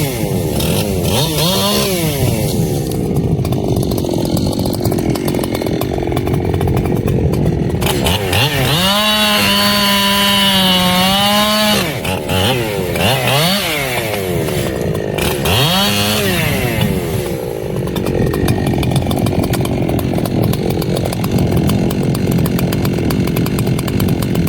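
Echo CS-7310 two-stroke chainsaw revving up and down several times, with a held high-revving stretch near the middle, and sawing wood with a denser, rougher sound in the last part.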